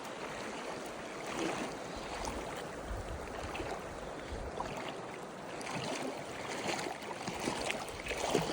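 Steady rushing of a flowing mountain stream, with a few faint knocks and rustles.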